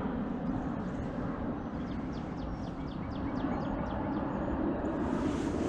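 Outdoor lakeside ambience: a steady low rumble of background noise, with a small bird giving a quick series of short, high, falling chirps through the middle.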